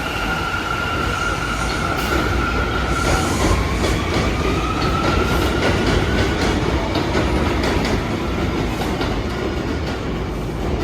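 New York City subway train running through the station, with a steady high whine that dips about three seconds in and climbs again. From about six seconds on there is rapid clatter of wheels over rail joints.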